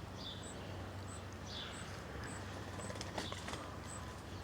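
Faint background chirping: a very high, short chirp repeating evenly about every two-thirds of a second, with a few lower falling chirps and some light ticks.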